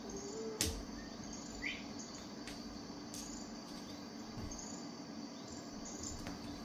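Faint, short, high chirps repeating roughly once a second over a steady low hum, with one sharp click about half a second in.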